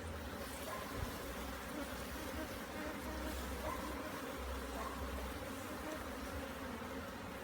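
Many honey bees buzzing steadily around an opened hive as its frames are inspected: a dense, continuous hum.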